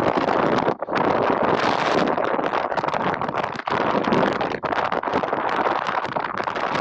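Strong wind buffeting the camera microphone, a dense, loud rushing noise with a couple of brief dropouts.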